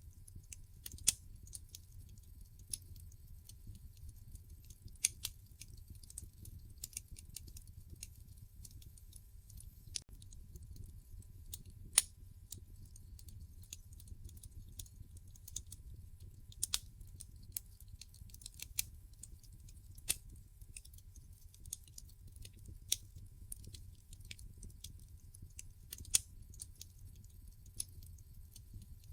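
Wood fire in a fireplace crackling, with irregular sharp pops and snaps from the burning logs, a few louder than the rest, over a low steady rumble.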